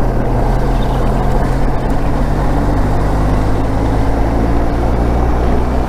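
Motorcycle engine running at a steady cruise while riding, with a rush of wind and road noise over it. The engine's pitch holds steady, shifting slightly near the end.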